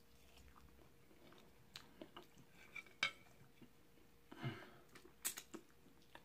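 Quiet chewing of baked chicken with a few sharp mouth clicks and smacks.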